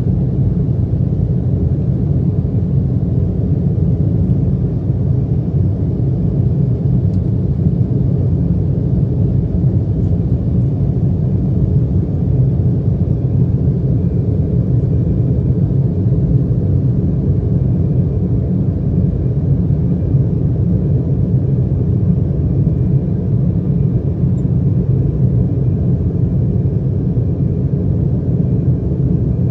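Steady low rumble heard inside the cabin of an Embraer 175 jet airliner during its takeoff climb: the noise of its GE CF34 turbofan engines and the airflow, even and unchanging.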